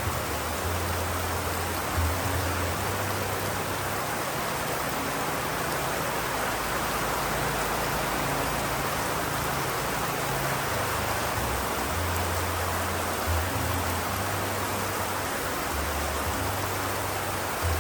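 Steady rain, an even hiss, with a deep low rumble that comes and goes and a few soft thumps: at the start, about two seconds in and around thirteen seconds.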